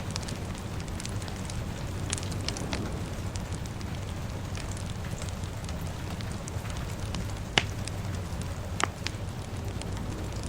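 A fire crackling steadily over a low, even rumble. It has scattered small crackles and two sharp, louder pops about a second apart in the second half.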